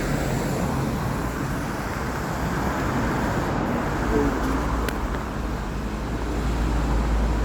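Steady vehicle and road-traffic rumble, with a deep low hum that grows stronger about four seconds in.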